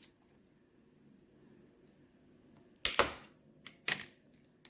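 Knife chopping through a wax melt bar: a short click at the start, a pair of sharp knocks about three seconds in, and another knock about a second later.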